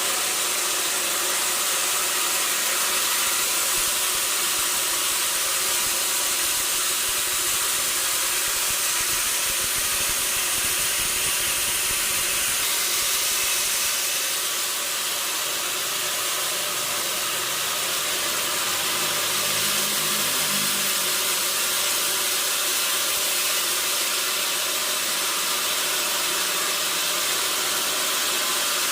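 Sawmill machinery running steadily: a loud, even hissing noise with little low end. A faint low hum rises briefly about two-thirds of the way through.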